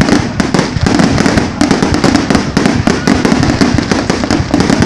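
Fireworks display going off in a rapid, continuous barrage of overlapping bangs and crackles.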